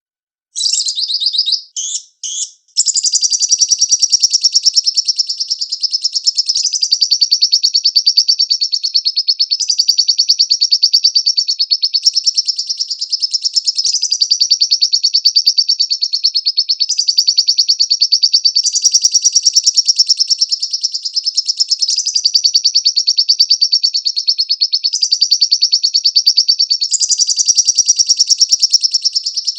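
Lovebird singing a long, rapid chattering song of fast repeated high notes. It starts about half a second in, breaks briefly twice just before the third second, then runs on without a pause.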